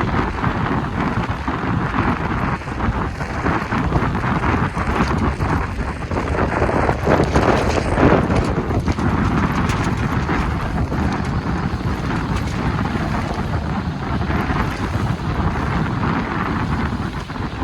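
Strong wind buffeting the microphone in gusts, a loud, rough rushing noise.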